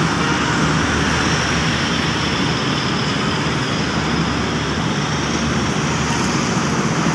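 Steady road traffic noise: vehicle engines and tyres running without a break.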